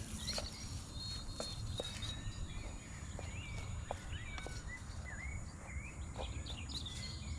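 Small birds chirping and twittering in short, scattered calls over a steady low outdoor rumble, with a few faint ticks.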